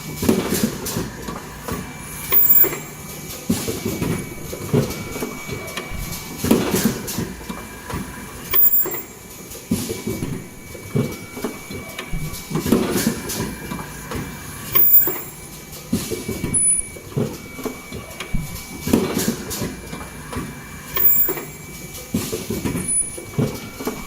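Automatic N95 cup mask machine running, with a mechanical clatter repeating about every two seconds as each cycle runs, over a steady high tone.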